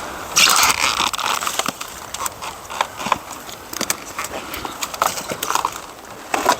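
Dry branches and brush rustling and snapping as firewood is gathered, with a dense burst of crackling about half a second in and a scatter of sharp cracks after it.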